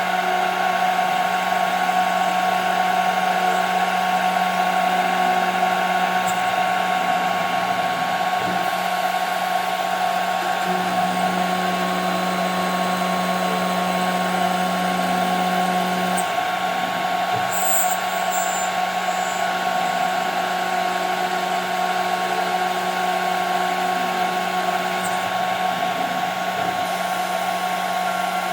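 CNC router spindle running at high speed while machining 5 mm plexiglass: a steady whine over a low hum, which grows stronger for a few seconds midway.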